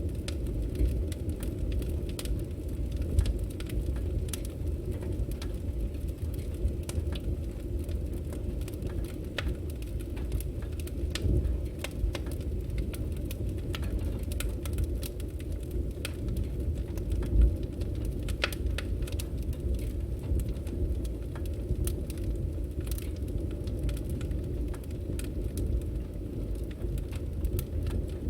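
Firewood burning, with scattered crackles and pops over a steady low rumble of the flames; one louder pop about seventeen seconds in.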